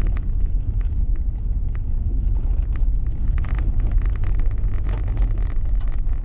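Steady low rumble of a car's engine and tyres on the road, heard from inside the cabin while driving, with light scattered ticks over it.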